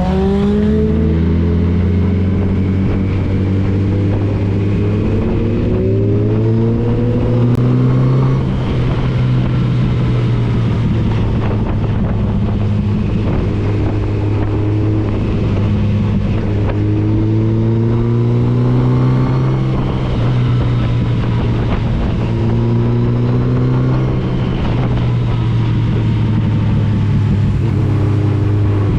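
A touring motorcycle's engine under way, accelerating up through the gears several times. The pitch climbs and then drops back at each shift, with steadier cruising stretches in between and wind noise underneath.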